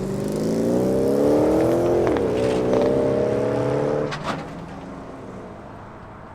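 A muscle car's engine accelerating as it pulls away, its pitch climbing, with a brief dip about two seconds in like a gear change, then climbing again. About four seconds in the driver lifts off, a few sharp pops follow and the sound fades as the car moves off.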